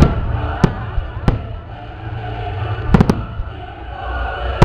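Fireworks going off in sharp bangs: single cracks at the start, after about half a second and after about a second, then three in quick succession about three seconds in, over a steady low rumble.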